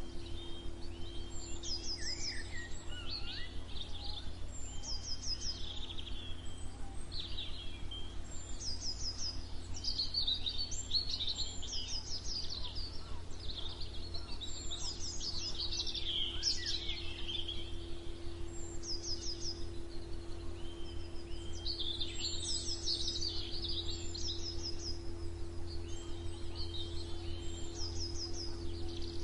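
Several songbirds singing at once: overlapping chirps and short repeated trills, over a steady low hum.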